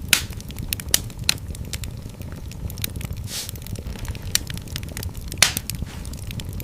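Fire burning in a fireplace, crackling steadily with many small snaps and a few louder pops over a low rumble of flames. A brief hiss comes about halfway through.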